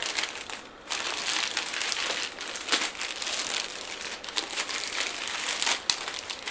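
Packaging crinkling and rustling as it is handled, with irregular small clicks and crackles and a brief pause about a second in.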